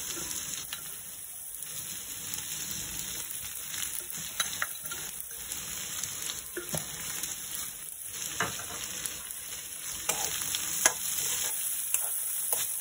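Sprouted black chickpeas and onion sizzling gently in oil in a metal kadai on a low flame, with a spatula scraping and clicking against the pan now and then, a few louder strokes in the second half.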